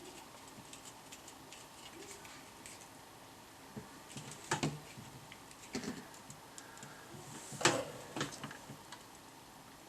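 Scattered light clicks and taps of small hard objects being handled, a few sharper ones a little past halfway, the loudest near the end, over faint background hiss.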